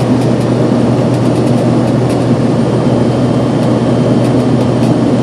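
Airliner cabin noise during the climb after takeoff: a steady engine drone and airflow noise with a strong, even low hum.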